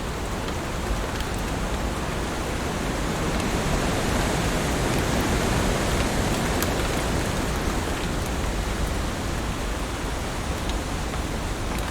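Heavy rain falling steadily as a dense, even hiss, with a few faint sharp drop ticks; it swells a little louder in the middle.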